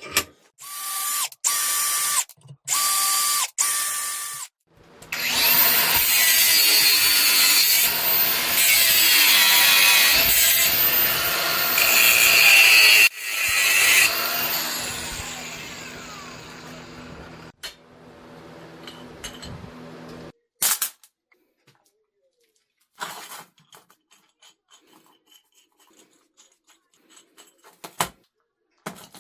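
Electric power tool in use: four short trigger bursts, then a long loud run that winds down slowly over several seconds after release. A few short knocks follow near the end.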